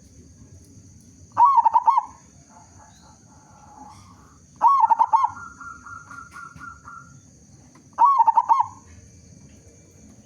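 Zebra dove (perkutut) calling three times, about three seconds apart. Each call is a short, loud phrase of quick cooing notes.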